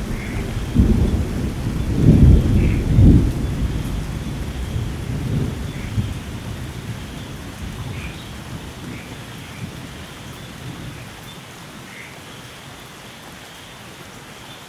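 Thunder rumbling over steady heavy rain, loudest in the first three seconds and then dying away, leaving the even hiss of rain. Faint short chirps come every few seconds.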